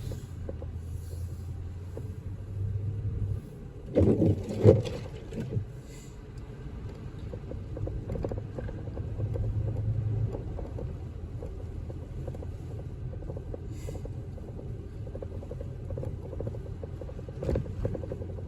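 Car driving, a steady low road-and-engine rumble heard from inside the cabin, with a cluster of heavy knocks about four to five seconds in and another knock near the end.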